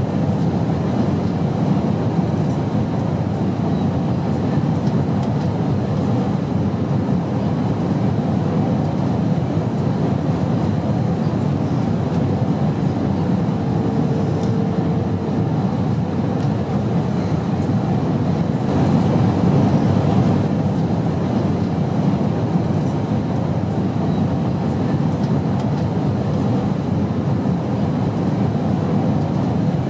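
Steady airplane noise: an even, low rumble that runs without a break, with a faint short hum about halfway through.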